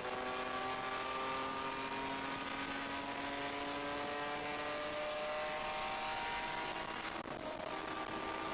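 Race car engine heard from inside the stripped cockpit, accelerating down a straight with its pitch rising slowly, then a brief break for an upshift about seven seconds in, after which it pulls on at lower revs.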